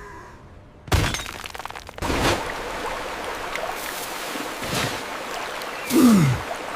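Steady rush of moving water with several sudden noisy surges, the loudest about a second in, at two seconds and near the end, where a low groan falls in pitch.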